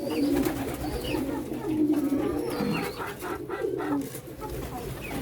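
Several domestic pigeons cooing at once, overlapping low wavering calls, with a few short higher chirps and scattered clicks among them.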